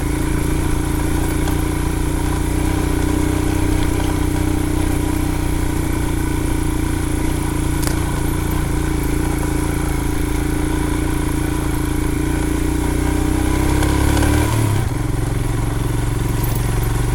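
Royal Enfield Himalayan's 411 cc single-cylinder engine pulling steadily at low revs. Its note rises a little, then drops sharply near the end.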